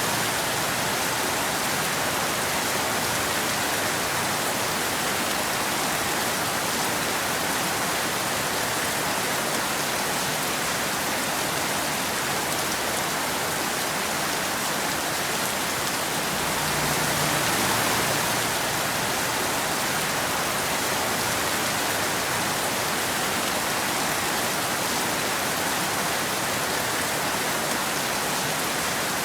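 Steady rain falling on a wet road and trees, an even hiss with a slight swell about two-thirds of the way through.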